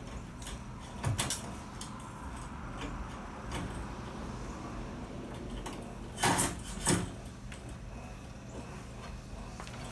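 Garage door cable hardware being worked by hand: a few light clicks about a second in, then two loud metallic clatters a little past halfway, over a steady low hum.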